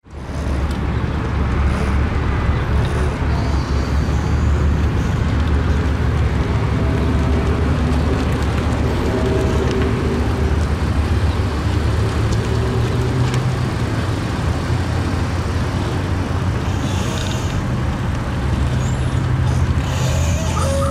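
Motor vehicle running, a steady low drone with road or traffic noise that holds at an even level throughout.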